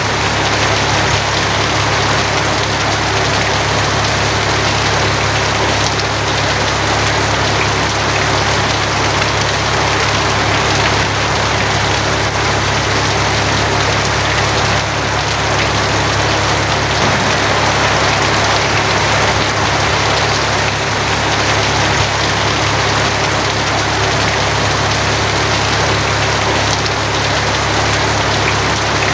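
Steady heavy rain drumming on a tin roof, a dense even patter without let-up, with a steady low hum underneath.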